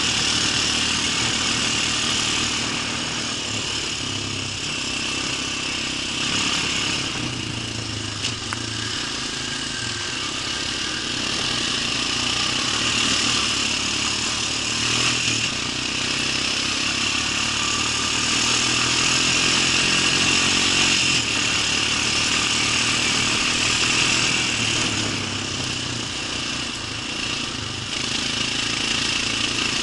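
An engine running steadily, with a continuous hiss and a low hum that rises and falls slightly in pitch.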